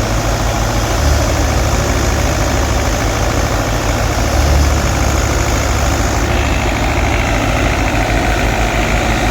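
Fiat 640 tractor's diesel engine running steadily under load as it drives a wheat thresher, with the engine and threshing machinery making one continuous, loud mechanical din. The tone shifts slightly about six seconds in.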